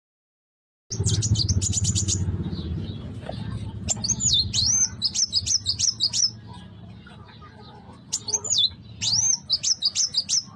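Young kuwul bird singing: a quick run of high chips about a second in, then two bursts of twittering, swooping whistled notes some four seconds apart. A low rumble sits underneath, loudest at the start.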